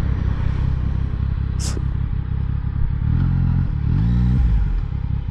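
Yamaha MT-09's inline three-cylinder engine running at low revs during a slow turnaround, its note rising twice in the second half as the throttle is opened. There is a brief high hiss about a second and a half in.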